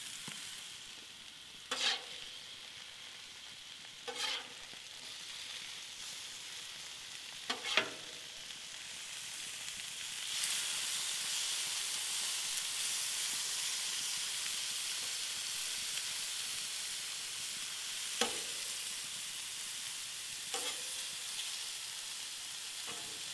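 Chicken and onions sizzling on a hot flat-top griddle, with a few short scrapes and clanks of a metal spatula against the griddle as the chicken is stirred and spread out. The sizzle grows louder about ten seconds in.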